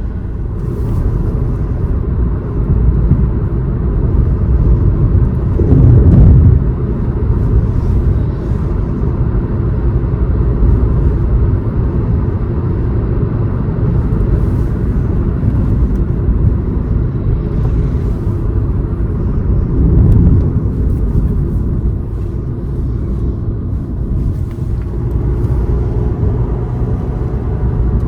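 Car driving along a road: a steady low rumble of tyres and engine, swelling briefly about six seconds in and again about twenty seconds in.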